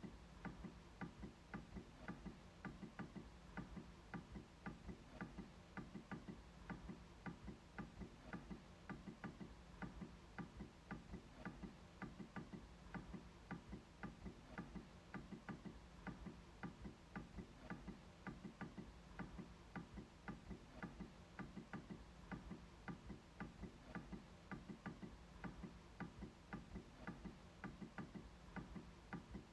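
MacBook trackpad being clicked over and over in an even rhythm, about three faint clicks a second.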